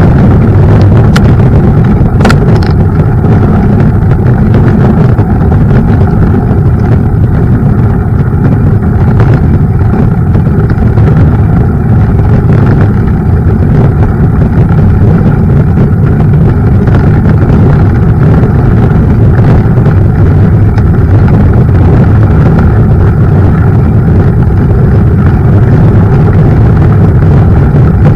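Loud, steady rumble from a mountain bike riding a trail: tyre and frame noise mixed with wind buffeting the bike-mounted microphone. A couple of sharp knocks come about one and two seconds in.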